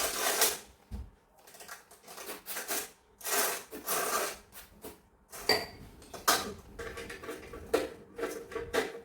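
Irregular clattering and scraping of hard objects being handled, in short bursts of a second or less.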